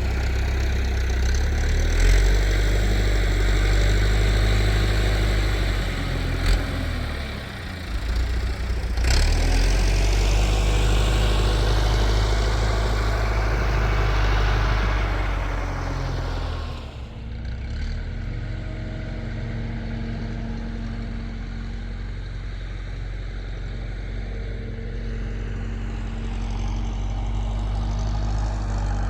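Tractor engine running hard, its pitch rising and falling, for about the first seventeen seconds. Its revs then drop and it settles to a steady idle.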